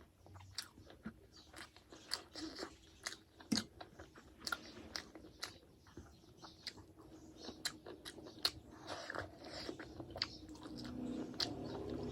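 Close-miked chewing and mouth sounds of someone eating buffalo meat in gravy with rice: a run of sharp wet clicks and smacks at an irregular pace. Near the end a low rumble rises underneath.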